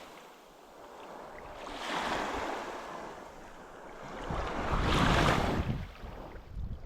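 Sea waves washing in over shoreline rocks, the surge swelling and falling away twice, with low wind rumble on the microphone during the second surge.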